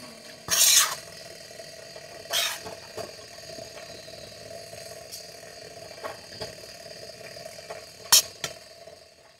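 A few short, sharp clatters or scrapes: one about half a second in, one near two and a half seconds and one near the end, with smaller ticks between, over a steady faint hiss and hum.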